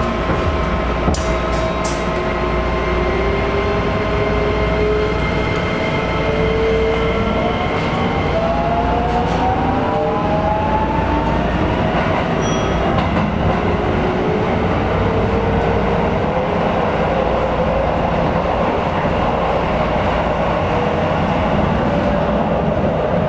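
Electric train running on rails with a steady rumble, its motor whine rising in pitch as it gathers speed about six to twelve seconds in.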